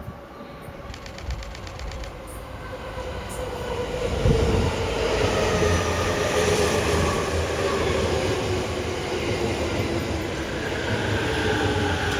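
E231 series electric commuter train pulling into a station. Its motor whine slides steadily down in pitch as it slows, over the rumble of wheels on rail, which grows louder over the first few seconds and then holds.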